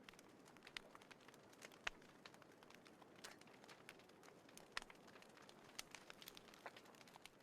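Small wood fire crackling in a fire pit: irregular sharp pops and ticks over a soft hiss, with louder pops about two seconds in and again near five seconds.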